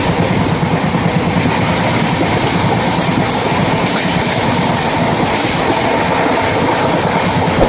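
Passenger train running steadily, heard from on board: a continuous rumble and rush of wheels on the rails, with some clickety-clack.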